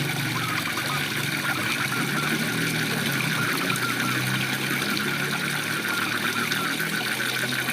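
Waterfall rushing steadily, with a chorus of frogs calling in fast, rapidly repeated pulses over it.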